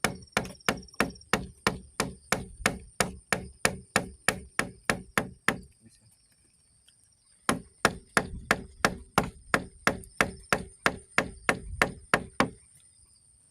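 Rapid, even blows of a tool on wood, about four a second, in two runs with a pause of nearly two seconds between them; each blow has a faint ring. Insects shrill steadily behind.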